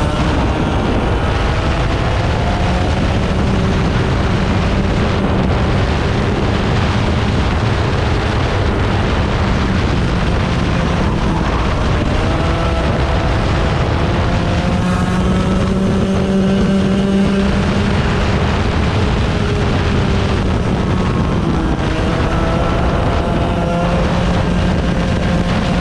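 100cc racing engine running hard through a practice lap, its pitch rising and falling repeatedly as it accelerates and backs off, with wind rush underneath.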